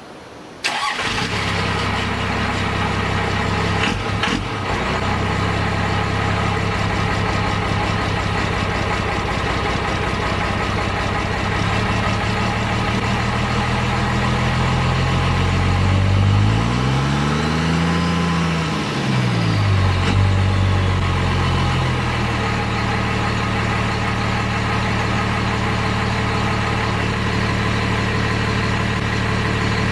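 1994 Dodge 3500's 12-valve Cummins 5.9 inline-six turbo diesel, on its stock (not straight-piped) exhaust, fires up less than a second in and settles into a steady idle. About 16 seconds in it is revved once and drops back to idle by about 21 seconds, with a faint whistle rising and falling along with the rev.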